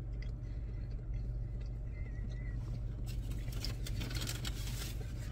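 A person chewing food quietly, with faint crackles from about three seconds in, over a steady low hum inside a car.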